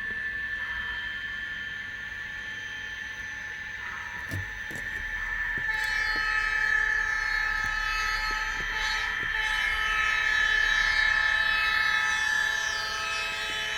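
N scale model train running on the layout with a steady high whine. About six seconds in, a louder, sustained, many-toned electronic horn-like sound from a sound-equipped model locomotive joins it and holds.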